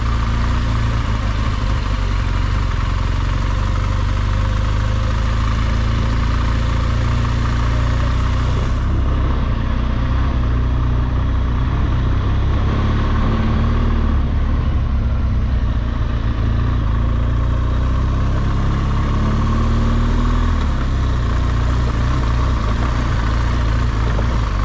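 BMW R1200GS Adventure's boxer-twin engine running steadily, with a constant hiss above it and a slight shift in engine pitch about twenty seconds in.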